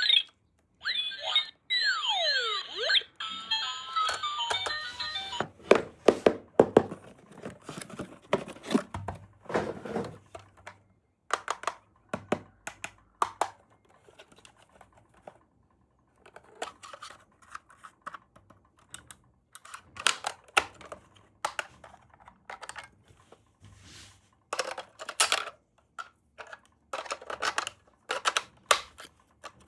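A short electronic jingle of beeping tones with falling sweeps for the first few seconds, then small plastic toy pieces clicking and tapping in irregular clusters with brief pauses.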